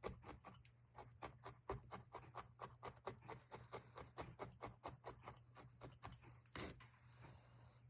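Felting needle stabbing repeatedly into wool roving, a faint quick rhythm of about five light pokes a second, with one brief louder rub about six and a half seconds in.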